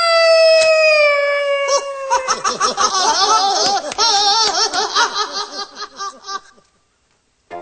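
High cartoon penguin voice: one long wail slowly falling in pitch, then rapid, wavering laughter-like cries that stop about a second before the end.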